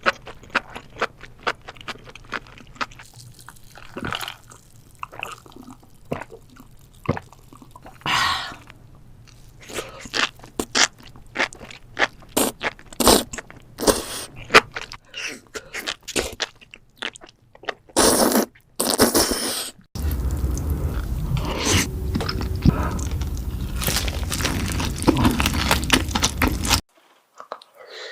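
Close-miked eating: someone biting into and chewing crunchy food, with many sharp, irregular crunches. From about two-thirds of the way in a steady low hum sits under the chewing, then cuts off suddenly near the end.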